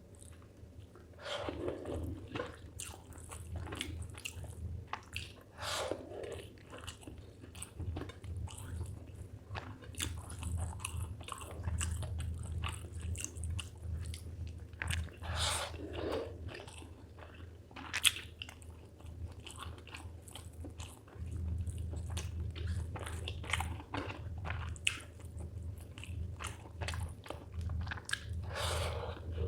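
Close-miked chewing and biting of a person eating spicy chicken liver with rice: a run of mouth clicks and smacks, with one sharper click around the middle, over a steady low hum.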